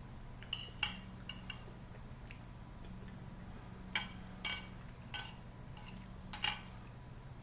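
Cutlery clinking and tapping against a soup bowl in about ten short, sharp knocks, the loudest about four seconds in, over a steady low hum.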